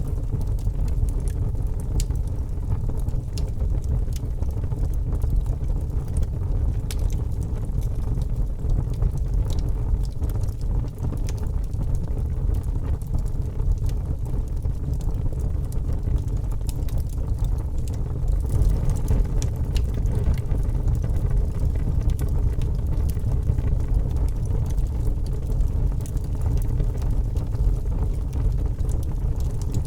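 Log fire burning in a fireplace: a steady low rumble of flames with frequent small crackles and pops throughout.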